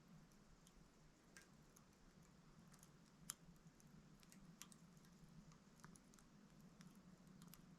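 Wood fire crackling faintly in a small titanium hexagonal wood stove: scattered small pops and ticks at irregular intervals, with one sharper pop about three seconds in.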